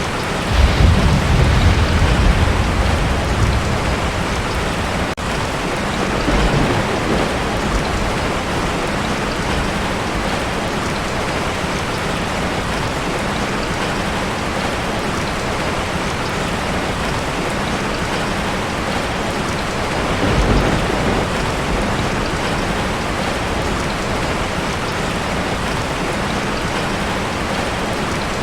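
Heavy rain drumming steadily on a metal roof, with a rumble of thunder near the start that fades over about three seconds, and fainter rumbles around six seconds and twenty seconds in.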